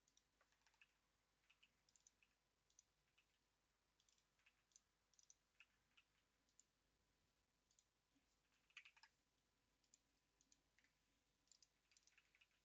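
Faint computer keyboard typing: irregular, scattered key clicks, with a quick burst of keystrokes about nine seconds in.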